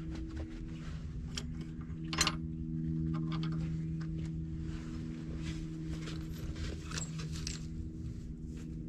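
Light metal clinks and rattles of hand tools and loose bolts or parts being handled, the sharpest clink about two seconds in, over a steady low hum.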